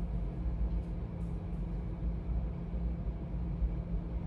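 A steady low rumble with a faint hum, with a couple of faint brief rustles about a second in.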